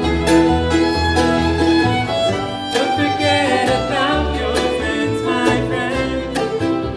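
An acoustic bluegrass-style band plays an instrumental break. A fiddle leads with sliding notes over guitar and banjo and a steady bass line.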